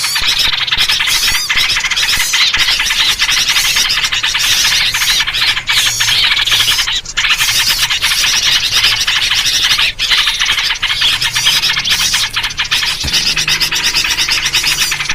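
Dense, continuous chatter of many small birds calling at once in a noisy, agitated mix, led by yellow-vented bulbul (trucukan) calls: a lure recording meant to draw wild birds in.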